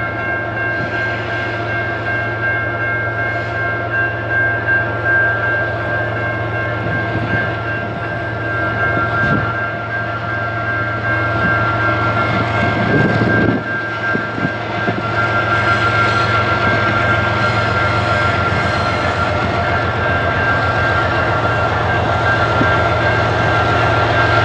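A train rolling past with a steady low rumble, overlaid by a sustained high-pitched squeal in several steady tones; a brief louder rumble comes a little past halfway.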